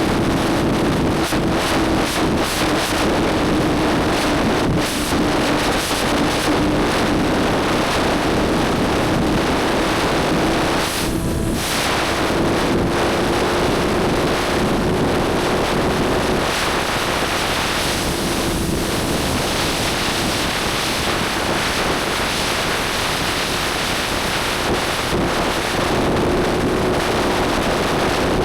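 Motorcycle engine running at a steady cruising speed, its note holding almost level, under heavy wind noise on the microphone; the engine eases off briefly about eleven seconds in.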